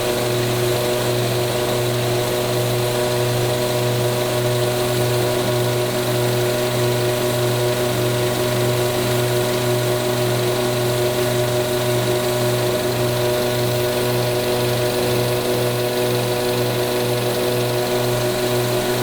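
Peugeot 408 THP engine idling steadily during an automatic transmission fluid exchange, a steady hum with a low note that beats evenly.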